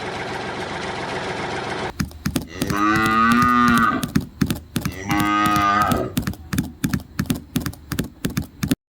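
A cow mooing twice, two long drawn-out calls, over a steady clicking of about three clicks a second. A steady machine hum runs underneath for about the first two seconds, then stops.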